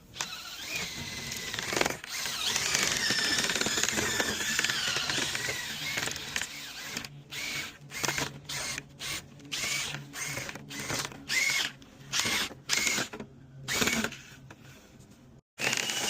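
Power drill spinning a dryer vent cleaning brush in the duct. It runs steadily for about seven seconds with a wavering whine, then is pulsed in about a dozen short bursts.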